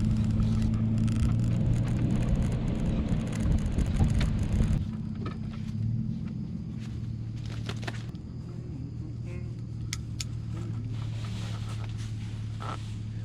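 Truck engine running steadily with a low, even hum, noisier and louder for about the first five seconds before settling.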